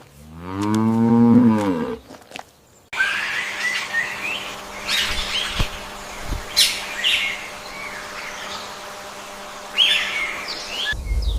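A cow moos once, a single call lasting about two seconds that rises and falls in pitch. After an abrupt cut, small birds chirp in short, scattered calls over a steady hum.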